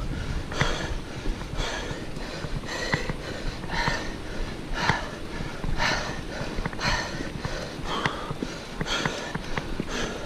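A cyclist's heavy, laboured breathing on a steep climb, a hard gasping breath about once a second, over a steady low rumble.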